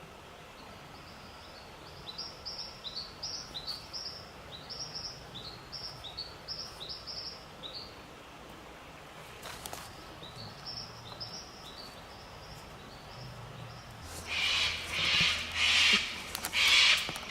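A bird calling a long run of quick, high chirps, each note rising then falling, followed by a fainter second run. Near the end come loud crunching rustles, about one a second.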